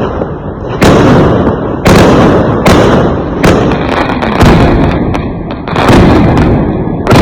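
Fireworks exploding: about seven loud bangs, roughly a second apart, each trailing off in a low rumble.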